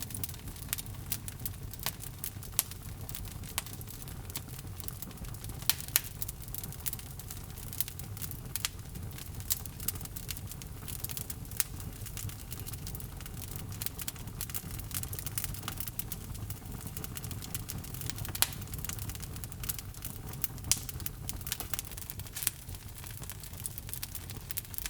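Wood logs burning in a fireplace, crackling and popping irregularly over a steady low rumble of the flames.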